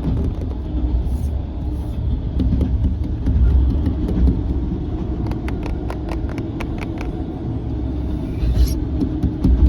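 Passenger train running, a steady loud low rumble heard from inside the sleeper compartment. Through the middle comes a run of sharp clicks and taps.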